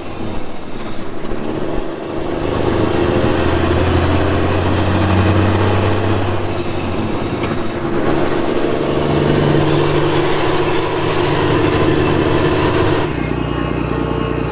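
Heavy diesel equipment engine running under load, with a high whine that drops and climbs back twice. Near the end the sound changes abruptly to a steadier, duller engine tone.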